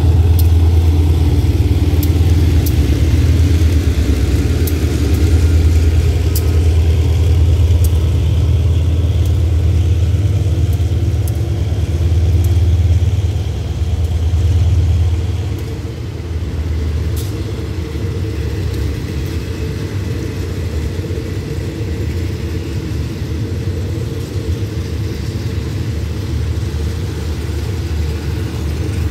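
Express passenger train pulling out of a station, its coaches rolling past on the rails with a steady low rumble and scattered light clicks. The rumble eases off about halfway through.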